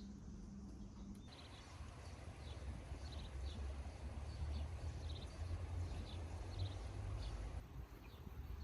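Outdoor ambience: small birds chirping in short high calls scattered throughout, over a steady low rumble.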